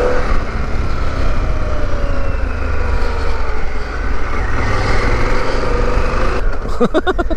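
Harley-Davidson Pan America's 1250 V-twin running under way over a steady low rumble, its pitch easing down and then climbing again as the revs change. A short run of rapid ticks comes near the end.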